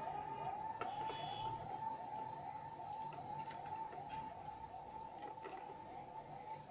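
A siren-like electronic wail, quick sweeps repeating steadily about two and a half times a second, with a few faint clicks from handling.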